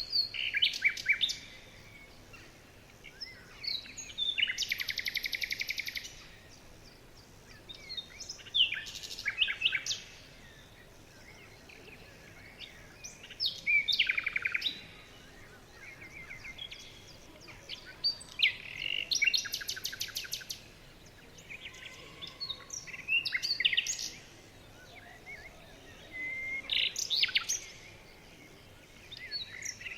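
A songbird singing short phrases of chirps and rapid trills, one phrase about every four to five seconds, with faint outdoor background noise between them.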